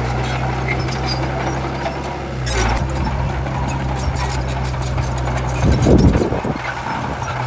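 Bulldozer's diesel engine running steadily with a low hum, surging louder briefly about six seconds in.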